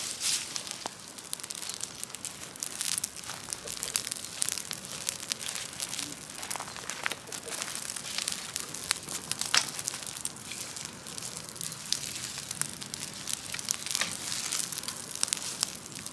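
Large open wood fire of brush and felled trees crackling, with many irregular sharp snaps and pops over a steady hiss.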